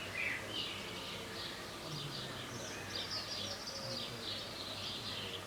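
Birds chirping outdoors, a string of short calls one after another.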